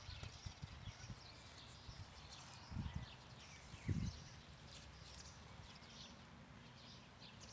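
Dull thumps and small knocks from handling and setting stakes for a stick shelter, the two loudest about three and four seconds in, with faint high chirping in the background.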